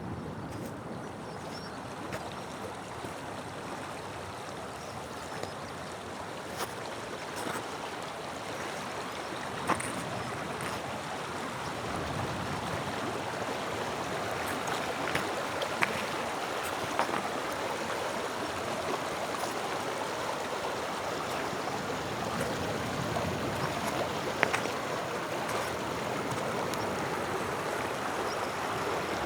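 Small stream running and gurgling over stones to the sea, a steady rush of water, with scattered sharp clicks through it.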